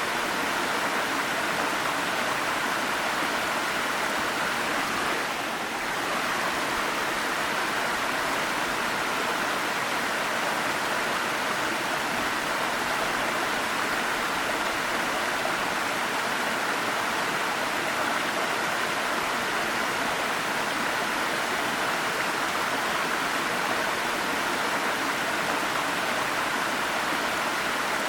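Waterfall: a steady rush of falling water, dipping slightly for a moment about five seconds in.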